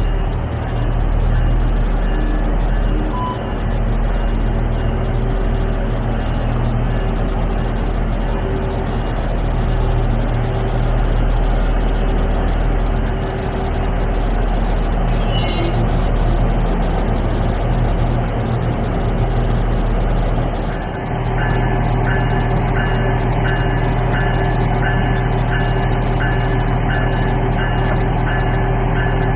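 SMART diesel multiple-unit train's engines running at the platform with a steady low rumble. About two-thirds of the way through the sound shifts and a short high beep repeats about one and a half times a second over the engine.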